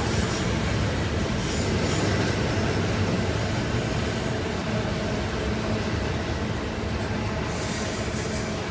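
Freight train wagons rolling past on the rails, a steady loud rumble of wheels and cars that slowly fades a little toward the end.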